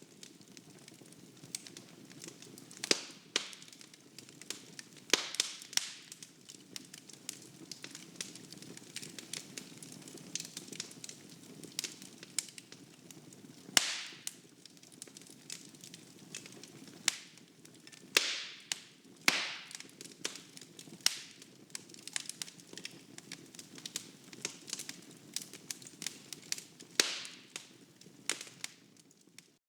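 Wood fire burning in a fireplace, crackling and snapping at irregular moments over a soft steady hiss.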